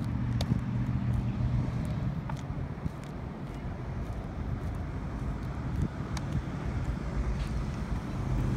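A motor vehicle's engine running with a steady hum, which fades about two seconds in and comes back near the end, with wind rumbling on the microphone.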